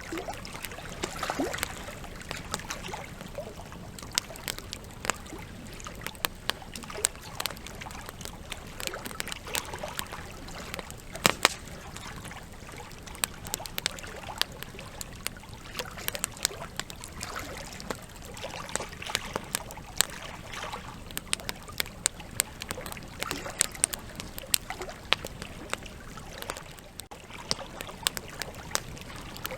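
Wood campfire burning, its logs crackling: frequent sharp pops and snaps over a steady soft hiss, with a loud double pop about eleven seconds in.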